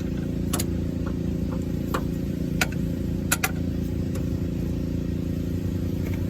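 A steady, low engine-like hum runs throughout, with a few sharp clicks scattered through it.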